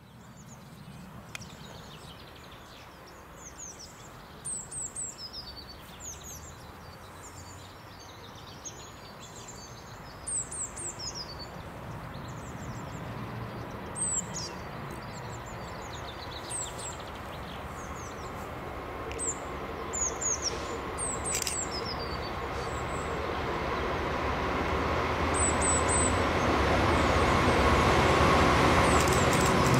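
Songbirds chirping over outdoor background noise, then a Class 66 diesel locomotive with its two-stroke V12 engine, hauling a freight train, approaching and growing steadily louder through the second half.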